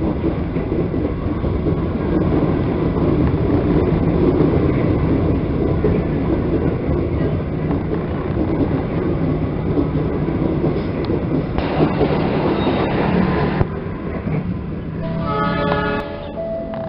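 Argo Muria express passenger train running straight through the station at speed: a dense, steady rumble of wheels on the rails, rising to a louder, brighter stretch for about two seconds near the end.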